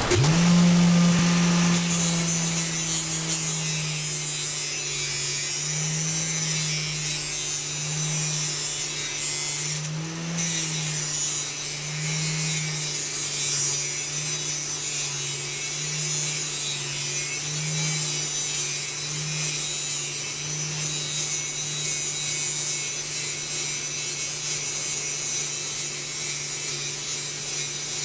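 Vise-mounted angle grinder with a grinding wheel starting up and grinding a rusty steel round bar: a steady motor hum whose pitch sags and recovers as the bar is pressed on, with a hiss from the wheel on the metal. About ten seconds in, the grinding breaks off briefly, then carries on.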